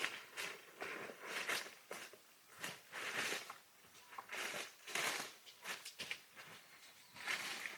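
Irregular short rustling and scraping handling sounds, a dozen or so brief strokes.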